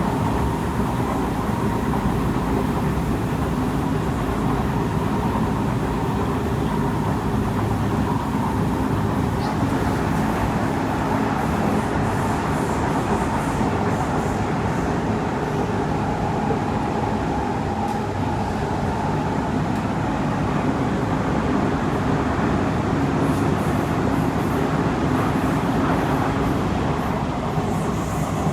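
Kawasaki C151 metro train running between stations, heard from on board: a steady rumble of wheels on rail with the held whine of its noisy traction motors.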